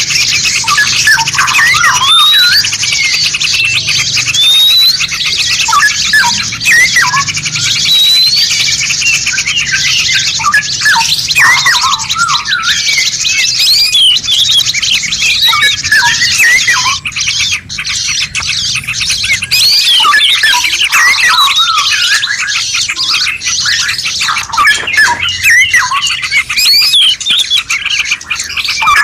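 Dense chorus of songbirds, many overlapping chirps, whistles and rising calls, over a steady hiss.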